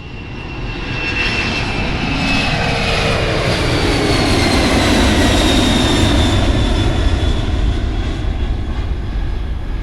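LATAM Boeing 767 twin-engine jet passing by: a loud rumble that builds to its peak about halfway through, while the engines' whine slides steadily down in pitch as it goes past.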